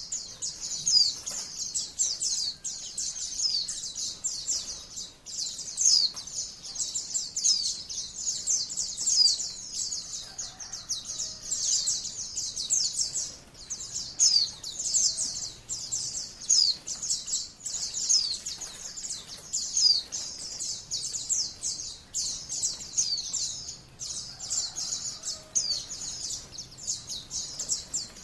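White-eye (pleci, Zosterops) singing a continuous torrent of rapid, high-pitched chirps and short descending twitters with no pauses, the dense 'ngalas' style of song used as masteran for training cage birds.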